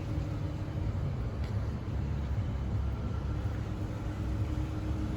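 Steady low rumble of vehicle noise, with a faint steady hum over it.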